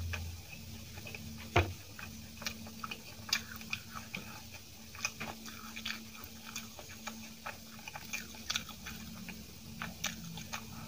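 Close-up eating sounds of soft idli dipped in coconut-peanut chutney being chewed: many small wet mouth clicks and smacks, with one sharper knock about a second and a half in, over a faint steady hum.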